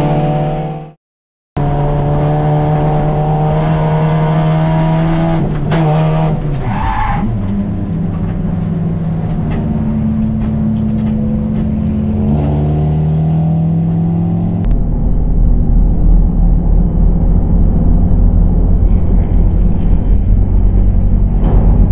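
Race car engine heard from inside the cockpit of a 2001 Honda Civic, running hard at high revs, the pitch holding steady and then shifting as the car brakes and accelerates. It cuts out completely for a moment about a second in. About 15 s in the sound turns into a deep, pulsing low rumble with no treble, like onboard audio played back slowed down.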